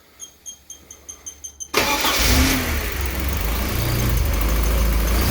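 1983 Porsche 944's 2.5-litre four-cylinder engine cranked by its new starter for under two seconds, in quick pulses growing louder, then catching and running steadily. It starts at once, showing the old starter was the cause of the no-start.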